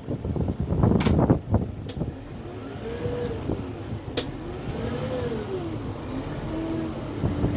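Kubota M6-141 tractor's diesel engine working under load. Its pitch rises and falls twice, then settles to a steady note near the end. The first couple of seconds are dominated by loud cracking and crashing knocks.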